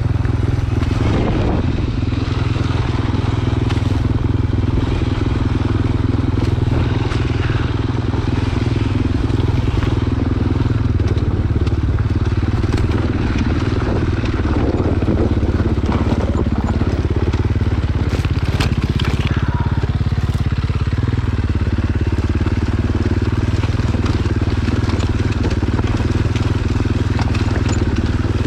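Dirt bike engine running steadily while riding a trail, its pitch shifting in steps with throttle and gears. Crunching, scraping and a few sharp clicks from the trail surface are heard over it.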